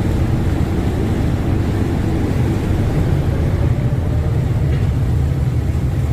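Passenger river boat's engines running, a loud steady low rumble heard from on board as the boat pulls away from a pier.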